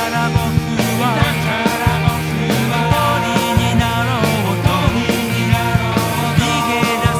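A rock band recording: a steady drum beat under sustained bass notes and electric guitar, with a lead melody line that bends up and down in pitch.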